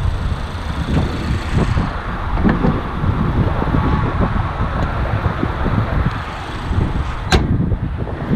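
Wind buffeting the microphone outdoors, with one sharp slam near the end.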